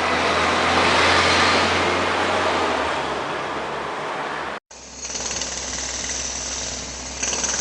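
Engine and traffic noise: a steady low engine rumble under a rushing sound that swells about a second in and then eases. It cuts off abruptly just past halfway, and a different recording follows with a steady low hum and a high thin whine.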